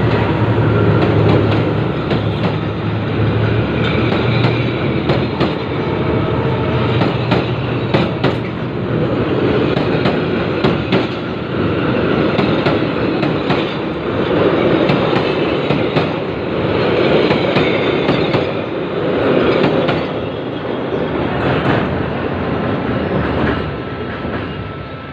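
Train passing over a bridge: a continuous rumble with wheels clattering over the rail joints, easing off near the end.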